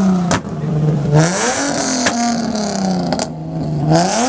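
A car engine being revved hard again and again, its pitch climbing then sagging back with each rev, with a few sharp cracks between revs.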